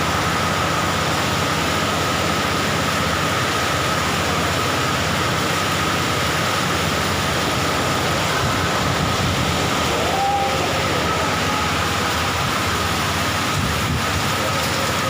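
Steady, loud rushing noise of a storm flood, heavy rain and running floodwater, with a thin, steady high tone over it.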